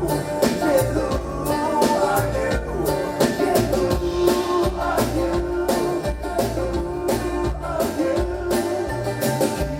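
A live band plays an instrumental passage of a bluegrass-style rock song, with a drum kit keeping a steady beat under plucked string instruments.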